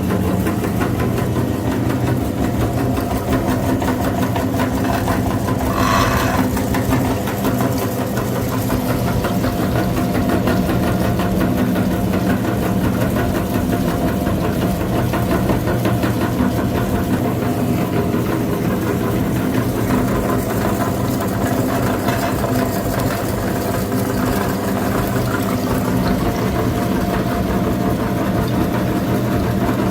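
Mini tractor engine running steadily, with a short higher-pitched sound about six seconds in.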